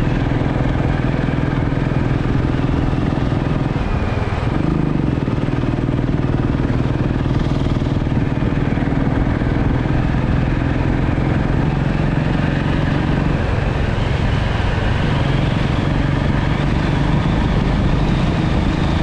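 Motorcycle engine running steadily under way, its pitch rising briefly about four seconds in and shifting again past the middle.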